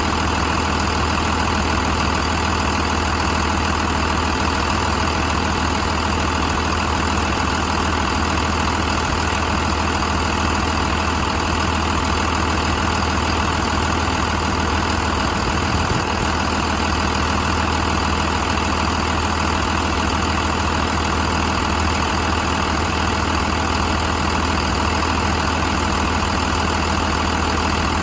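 Cummins B5.9 5.9-litre inline-six diesel engine idling steadily, with no revving.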